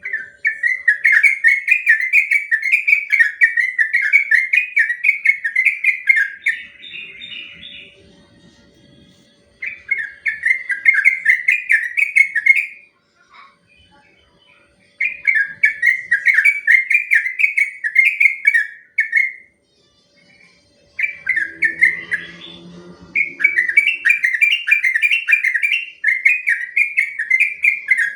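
Yellow-vented bulbul singing its long rolling song: fast strings of repeated bubbly notes, given in phrases several seconds long with short pauses between them.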